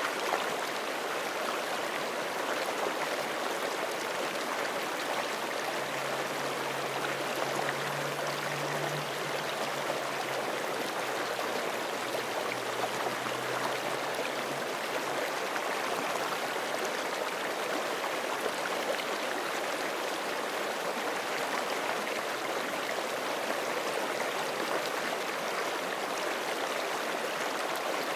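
Forest creek flowing steadily, an even, unbroken wash of running water.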